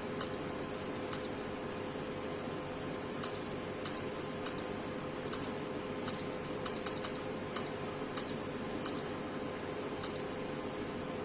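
Short key-press beeps from a Roche electrolyte analyzer's keypad, about fourteen at uneven spacing, a few in quick succession in the middle, over a steady hum.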